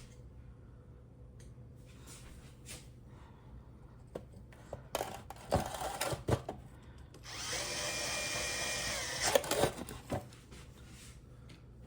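Small power screwdriver running for about two seconds, driving a screw into the side mirror assembly, with clicks and knocks of small parts being handled before and after it.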